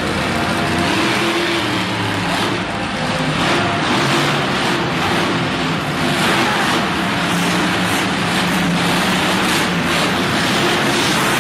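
Monster truck engine running loud and revving, a continuous rough drone whose pitch shifts up and down.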